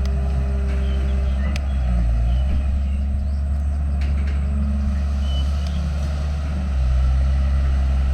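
Heavy earthmoving machine's diesel engine running under work, its pitch shifting up and down a little. Two faint sharp clicks come through about a second and a half and four seconds in.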